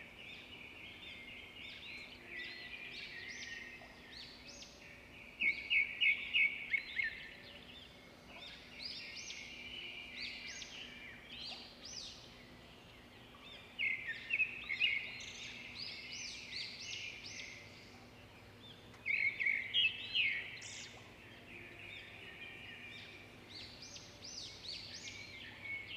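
Small birds chirping in clusters of quick high notes that come again every four to five seconds, over a faint steady hum.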